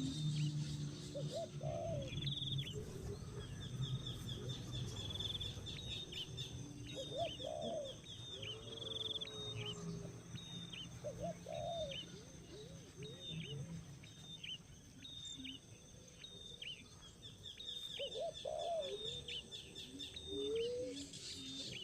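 Small birds chirping: quick, high-pitched chirps repeated over and over, with a lower call every few seconds.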